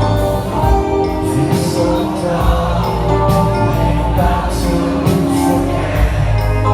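Live band music with a steady beat, bass and guitars, and a man singing lead over it through the middle of the stretch.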